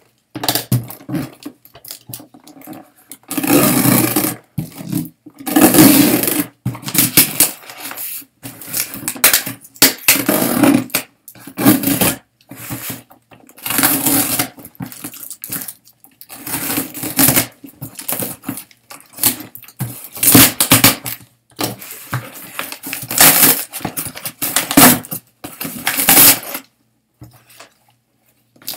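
Shipping packaging being torn open and handled: loud, irregular bursts of crinkling, ripping and rustling, one after another with short pauses between.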